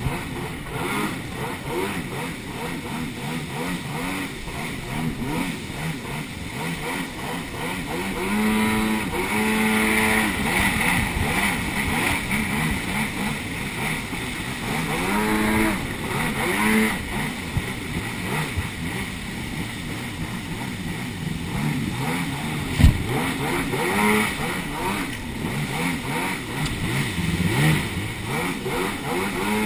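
Jet ski engines running and revving, the pitch rising and falling several times, with a sharp knock about 23 seconds in.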